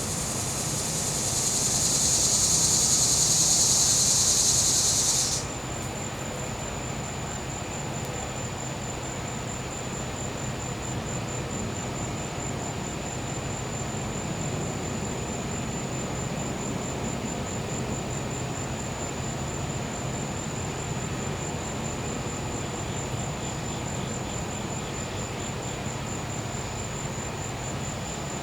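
A cicada buzzes loudly, swelling and then cutting off suddenly about five seconds in, while a cricket trills steadily in a high, pulsing tone. Underneath runs the steady low hum of a gas-powered generator.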